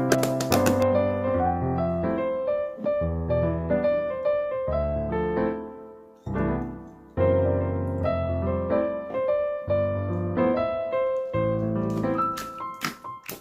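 Background piano music, notes struck in a slow melody, with a short pause about six seconds in. A few sharp clicks sound over it near the start and again near the end.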